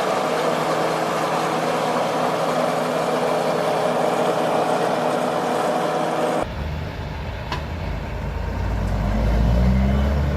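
Heavy machinery engine running steadily with a dense, even tone. At about six seconds it cuts abruptly to a different, deeper engine rumble that grows louder toward the end.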